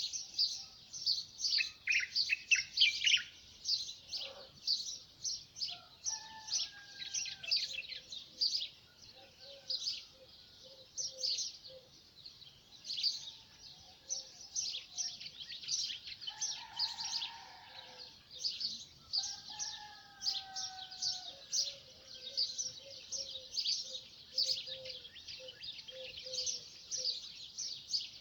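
A chorus of several small birds singing: dense, rapid high chirps throughout, with softer, lower whistled phrases from other birds here and there.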